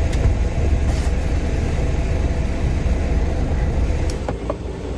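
A vehicle engine idles with a steady low rumble, and a few light knocks are heard over it.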